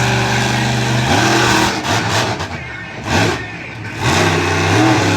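Monster truck engine running hard: it holds a steady high note, revs up about a second in, drops off with a brief burst in the middle, then revs up again near the end.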